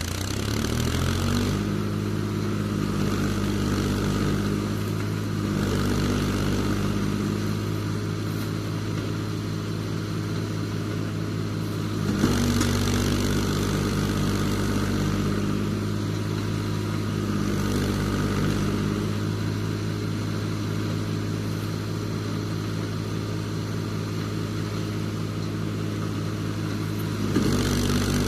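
Steyr 540 tractor's diesel engine just after starting: it speeds up over the first second or so, then runs steadily, with a brief change in engine speed about twelve seconds in and again near the end.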